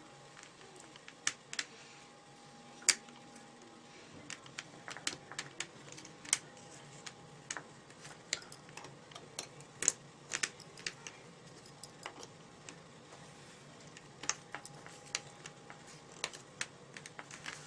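Irregular small clicks and taps of plastic and metal parts being handled and pushed into place while fitting the trigger and its spring into a UA-937 Magnum airsoft gun.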